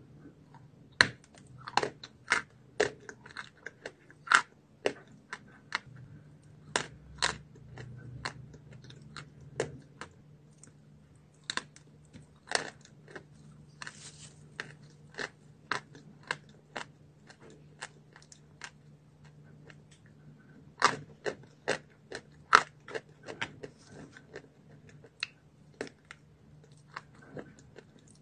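Eating chalk being bitten and chewed close to the microphone: many sharp, dry crunches at an irregular pace, sometimes several in quick succession, with quieter chewing between.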